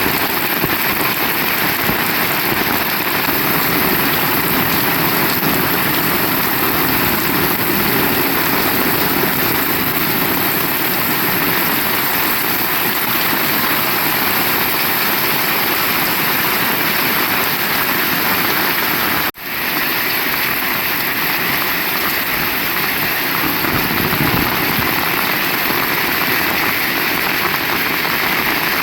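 Heavy rain falling steadily, a dense even hiss of rain on surfaces. About two-thirds of the way through the sound drops out for an instant.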